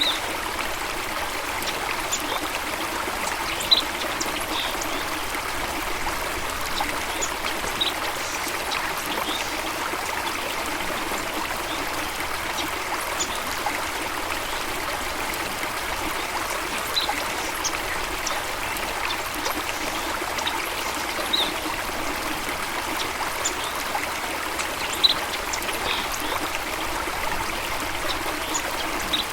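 Water flowing steadily over rocks in a stream or small waterfall, a constant rushing trickle. Brief high bird chirps sound every few seconds over it.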